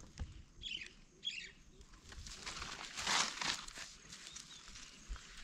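Two short, high bird chirps, each falling in pitch, early on, followed midway by a swell of rustling noise.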